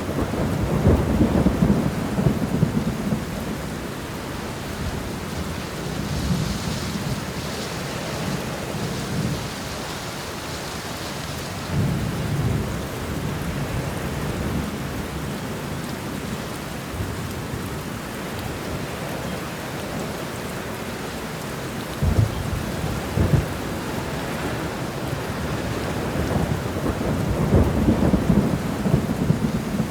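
Steady rain in a thunderstorm, with thunder rolling several times: a rumble at the start, another about twelve seconds in, two sharper cracks a little past two-thirds of the way, and a longer rumble near the end.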